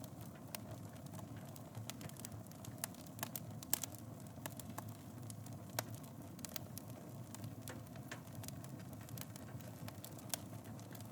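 Fire in a fireplace crackling: frequent sharp pops and snaps over a steady low rushing of the flames, the loudest pops a little under four seconds in and again near six seconds.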